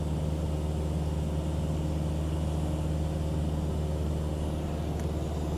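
Cessna 172's piston engine and propeller droning steadily in cruise flight, an even, unbroken low hum.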